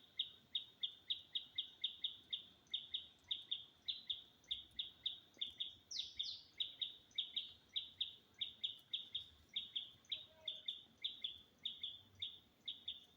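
A bird calling in a steady, unbroken series of short, high chirps, about four a second, each one a quick downward sweep.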